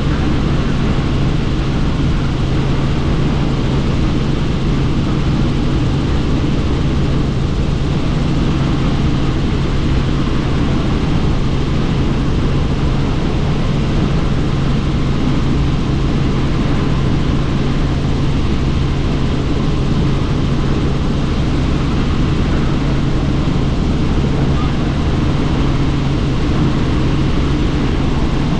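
Helicopter in cruising flight heard from inside the cabin: a steady, loud drone of rotor and engine with a constant low hum, and wind rushing past the open doors.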